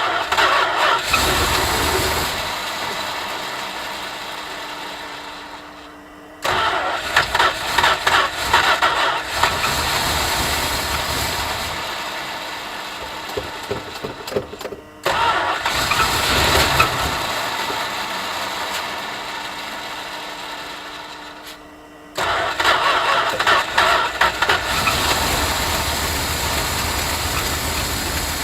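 1972 Chrysler Newport's V8 being started cold, four times over. Each time it catches and runs loud and uneven at first, then settles into a steadier, slowly quietening fast idle. Each run breaks off abruptly before the next begins.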